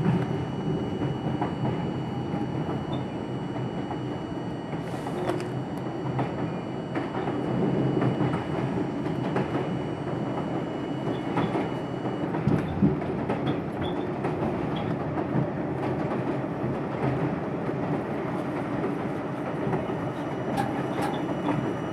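R42 subway car running at speed, with a steady rumble of wheels on rail and scattered clacks over rail joints, heard from inside the car. A faint whine rises at the start, and some thin high tones stop about halfway through.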